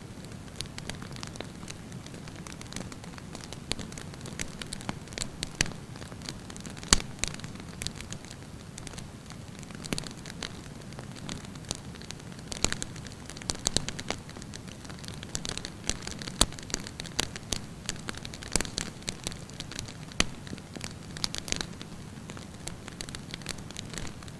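Wood campfire burning, with a steady low rumble of flames and frequent sharp crackles and pops scattered throughout.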